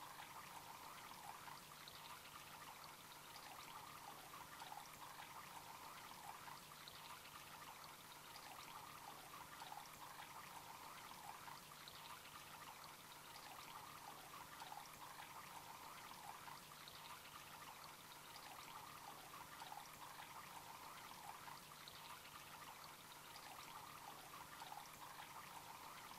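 Kelkay Shell Girl garden water fountain running, water trickling and pouring steadily. A faint steady hum runs underneath.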